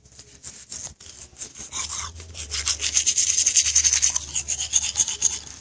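Teeth being brushed with a toothbrush: rapid back-and-forth scrubbing strokes, louder from about two seconds in.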